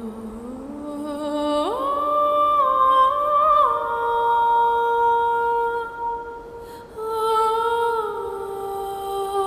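Background score: a slow, wordless hummed melody of long held notes that slide from one pitch to the next.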